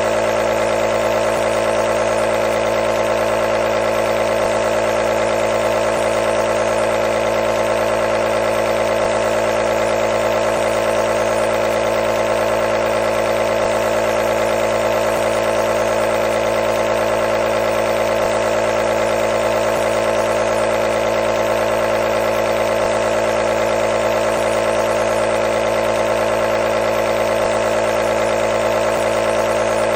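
Nebulizer running continuously, a steady machine hum over an even hiss.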